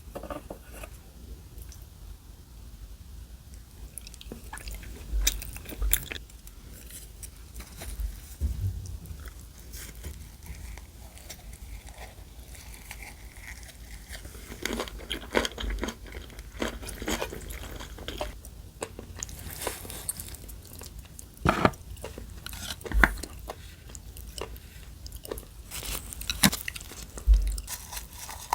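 Close-miked eating sounds: chewing with irregular crunchy bites and clicks.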